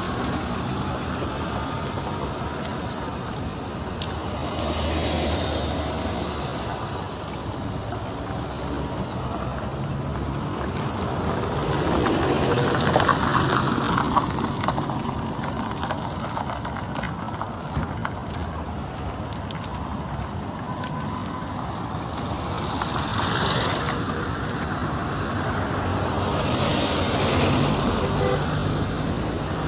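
Road traffic: motor vehicles driving past one after another, a continuous engine hum and tyre noise that swells as each one goes by, loudest about halfway through.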